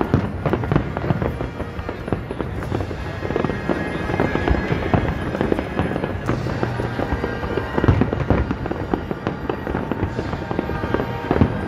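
Aerial fireworks display: a dense, continuous string of shell bursts going off one after another.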